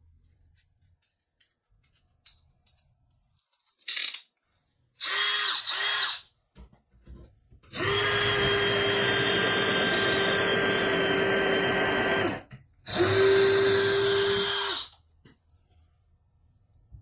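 Power drill running in repeated trigger bursts, a steady motor whine: a brief blip, two quick bursts, then a run of about four seconds and a shorter run of about two, typical of driving or drilling into wood.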